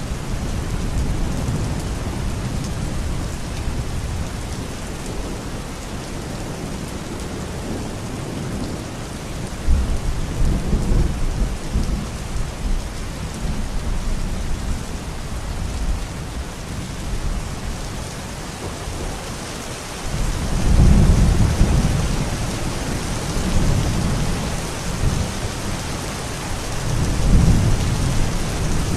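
Steady rain with low rolling rumbles of thunder, the strongest about ten seconds in and again from about twenty seconds in.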